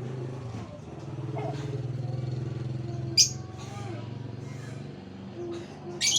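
A bird gives two sharp, loud, high squawks, one about three seconds in and one at the end, over the steady hum of an engine running that fades out shortly before the second squawk.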